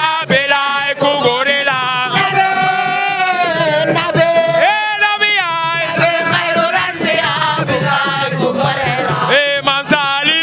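Music with a man's voice singing a devotional chant in long, held, wavering melismatic notes, with a few sharp percussive taps.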